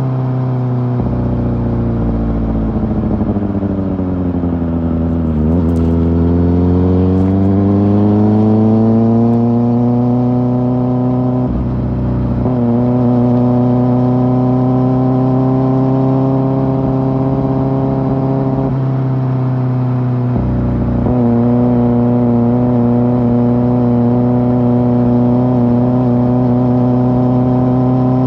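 Kawasaki ZX-4R's inline-four engine through an Akrapovic exhaust, under way. The revs drop over the first few seconds, then climb steadily. The note breaks briefly about twelve seconds in and again about twenty seconds in, and otherwise holds a fairly steady cruise.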